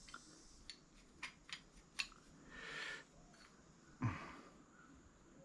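Faint, scattered clicks and taps of small brass plumbing fittings being handled, with a short rasp about two and a half seconds in and a duller knock at about four seconds.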